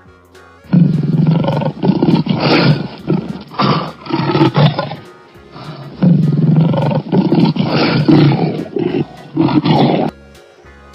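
Lion roaring in two long bouts of rough, pulsing roars, starting about a second in, easing briefly near five seconds and resuming until about ten seconds in.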